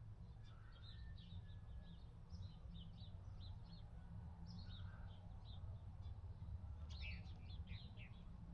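Small birds chirping and twittering repeatedly over a faint low background hum, the chirps thickening near the end.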